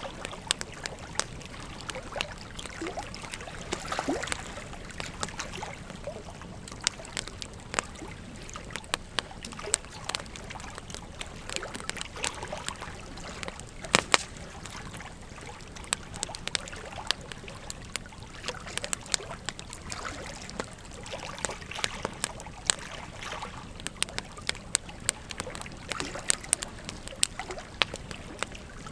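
Campfire crackling: a steady hiss full of irregular sharp pops and snaps, with one louder pop about halfway through.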